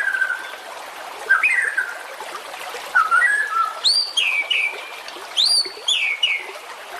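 Songbird singing short whistled phrases from a bird-song training recording, about five in all. The early phrases are lower slurred notes, and the two later ones sweep up high and then drop in steps. A steady hiss runs underneath.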